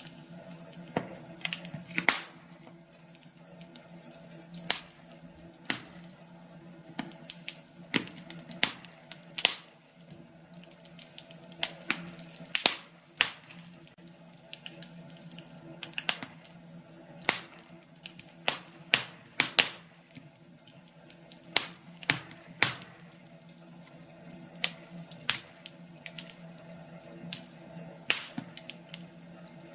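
Wood fire burning in a fireplace, with irregular sharp crackles and pops from the burning logs over a faint steady low hum.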